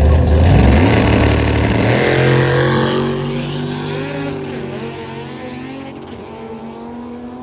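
Drag-racing cars launching off the start line and accelerating hard down the strip, the engine pitch climbing in the first couple of seconds, then the sound fading steadily as they pull away.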